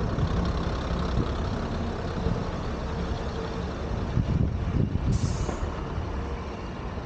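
Heavy engine running steadily with a low rumble, and a short hiss about five seconds in.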